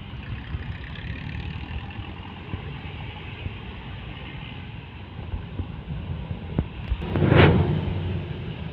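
Road traffic: a steady engine and tyre rumble, with one vehicle passing close by about seven seconds in, its noise swelling to the loudest point and then fading.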